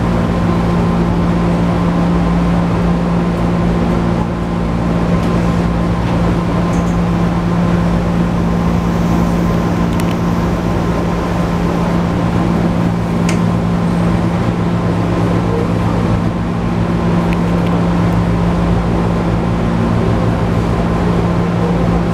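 JR 205 series 1000 subseries electric train running at a steady speed, heard from inside the passenger car: an even hum over the rumble of wheels and running gear, with a few faint ticks.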